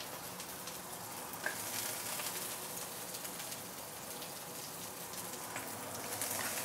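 Dried chillies, ginger, garlic and shallot sizzling in hot oil in a nonstick wok, a steady hiss with scattered small crackles, while a wooden spatula stirs them.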